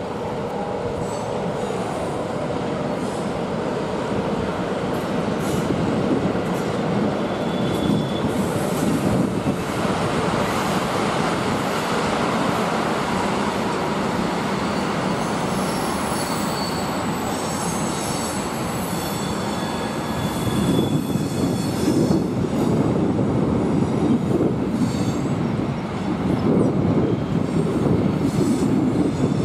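Freight wagons rolling past on the rails: a steady rumble of steel wheels on track, with thin high wheel squeal in the middle stretch. The rumble grows louder about two-thirds of the way through.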